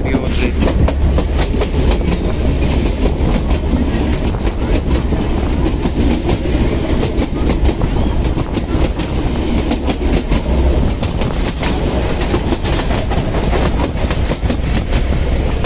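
Narrow-gauge Kangra Valley Railway passenger train running, heard from on board: a steady low rumble of the running train under a rapid, uneven clatter of wheels over the rails.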